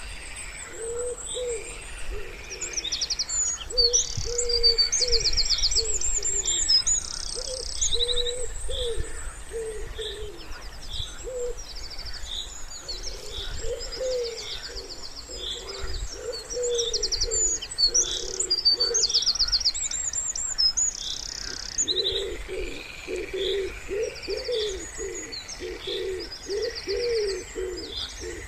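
Wood pigeons cooing in low, repeated phrases, with small songbirds singing fast high trills and chirps over them.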